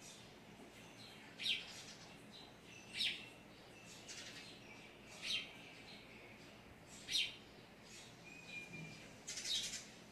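Birds calling outside a window: short, sharp chirps repeated every one and a half to two seconds, with a brief whistled note near the end.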